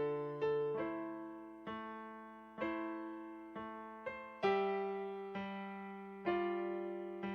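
Solo piano playing a slow hymn: chords struck about once a second and left to ring and fade.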